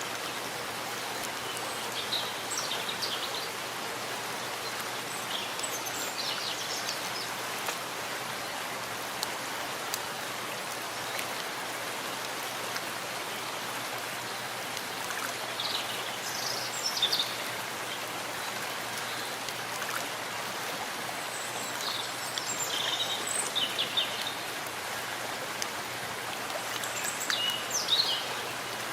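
Steady rain falling on a forest, an even hiss. Short bursts of high bird chirps come through it about five times.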